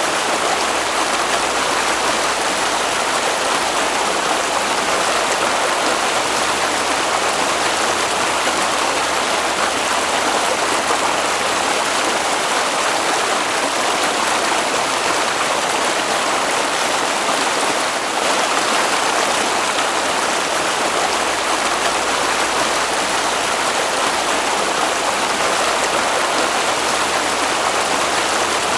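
Water flowing in a stream: a steady, even rushing with no breaks.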